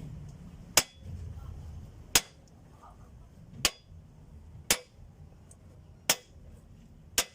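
Six sharp hammer blows, about a second to a second and a half apart, struck through a wooden block used as a drift to knock out an engine's cylinder liner.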